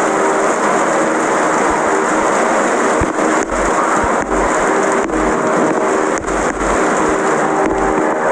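Electric fan running: a steady rush of air with a faint motor hum, and low buffeting where the airflow strikes the microphone.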